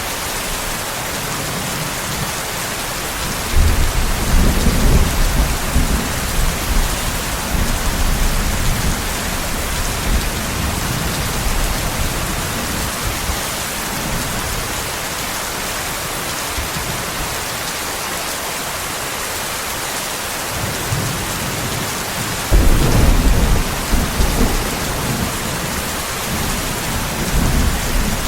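Steady heavy rain with rolling thunder. A deep rumble begins about three and a half seconds in and rolls on for several seconds, and a second one starts a little after twenty-two seconds.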